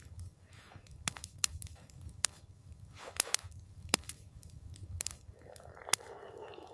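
Wood fire crackling, with sharp irregular pops and snaps about once or twice a second over a steady low rumble.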